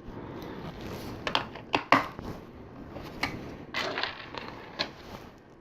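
LEGO plastic pieces clicking and rattling as they are handled and pressed together: a handful of sharp, irregular clicks and knocks.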